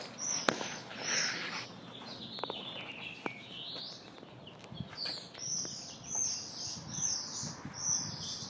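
Bird chirping in high, repeated notes, settling into about two chirps a second from about five seconds in. A sharp click comes just after the start and two fainter clicks follow a few seconds later.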